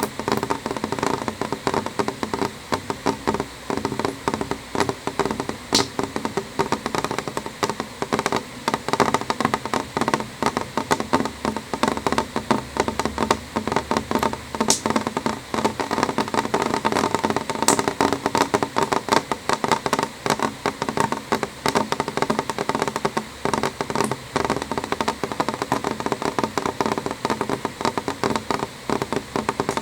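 Rain falling on a window pane: a steady, dense run of small, uneven drop taps on the glass.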